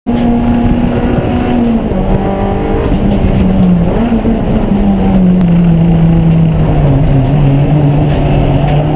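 Race car engine running loud and continuously, its pitch sinking slowly in small steps over several seconds as the revs come down.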